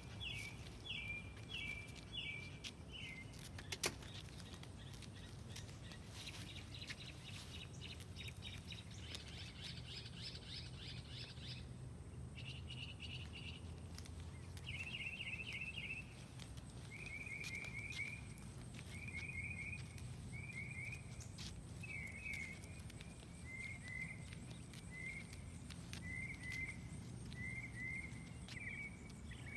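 Songbirds chirping in short, quickly repeated phrases, with a rapid higher trill about seven to twelve seconds in, over a steady low background noise.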